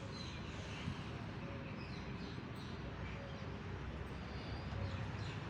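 Outdoor ambience: a steady low rumble and hiss with faint, scattered bird chirps.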